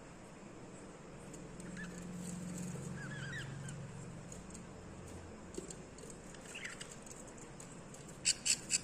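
Baby budgies chirping: a few faint short chirps, then three loud, sharp high calls in quick succession near the end. A low hum runs underneath for a few seconds in the middle.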